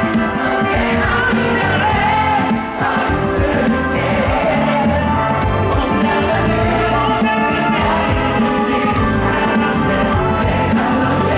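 Live pop concert music: a band playing at full volume with a singing voice over it.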